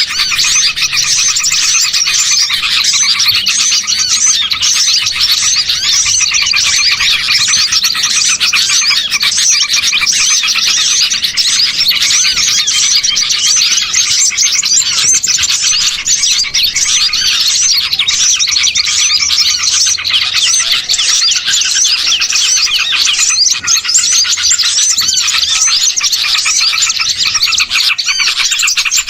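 A loud, dense chorus of many small songbirds chirping and trilling over one another without a break: a bird-lure (pikat) recording of noisy small birds.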